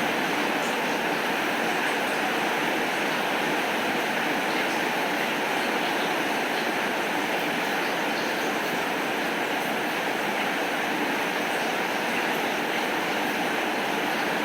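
Steady, heavy rain falling, an even hiss with a few faint scattered ticks of drops and no thunder.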